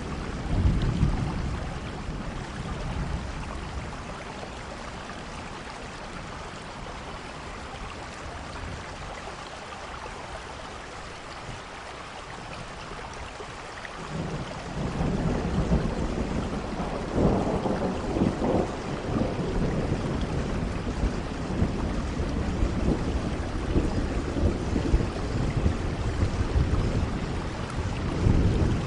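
Steady rain with thunder: a low rumble about a second in, then a longer rolling rumble that starts about halfway through and swells for a few seconds.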